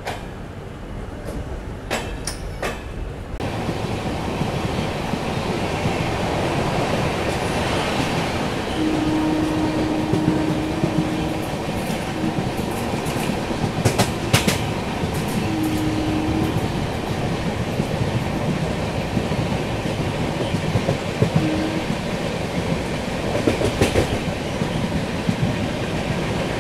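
Indian express train running along the track, heard from on board: a steady rumble of the coaches with sharp clicks of the wheels over rail joints, getting louder a few seconds in. A short steady tone sounds three times around the middle.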